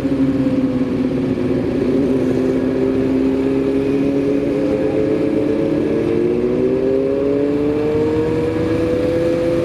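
Motorcycle engine running while riding, its note climbing gently over the last few seconds.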